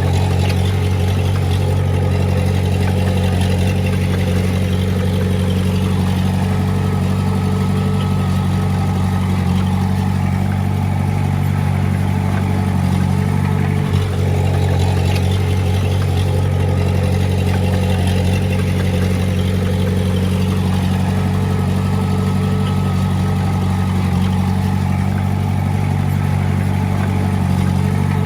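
Heavy-machine diesel engine running loudly and steadily at a constant speed, with a brief dip about halfway through.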